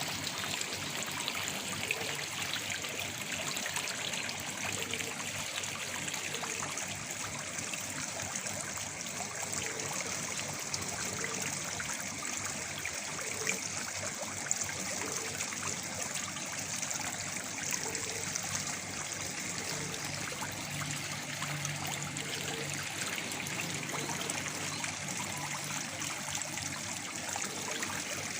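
Small waterfall, water falling and splashing steadily with a trickling hiss.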